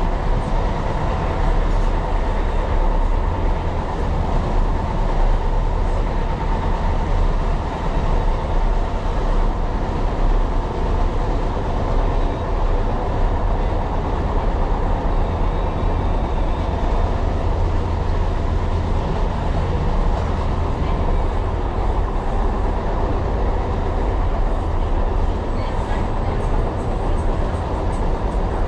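Tyne and Wear Metro train running steadily along the line, heard from inside the car: a continuous deep rumble of motors and wheels on rail.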